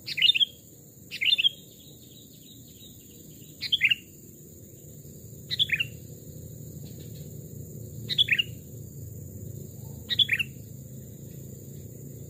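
Sooty-headed bulbul calling: six short, sharp phrases, each sweeping quickly downward in pitch, spaced one to two and a half seconds apart.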